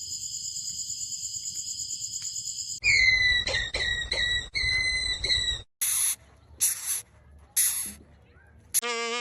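A run of separate animal recordings: a steady, high, rapidly pulsing trill for nearly three seconds, then a series of short repeated chirping calls, then three brief high hissing bursts; a new pitched call begins right at the end.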